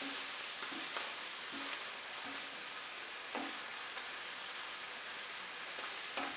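Chicken and peppers sizzling steadily as they fry in an enamelled pan, with a few soft scrapes and knocks from a wooden spatula stirring them.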